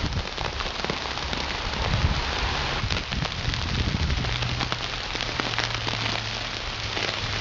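Ice storm: freezing rain pattering and ticking steadily, a dense hiss of tiny clicks over a low rumble.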